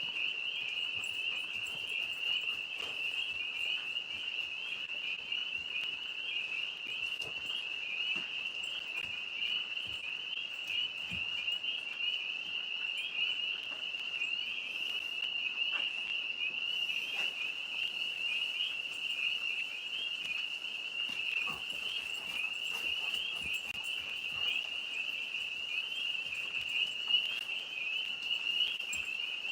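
A dense chorus of tree frogs in the trees above a pond, calling together as one steady, unbroken high trill.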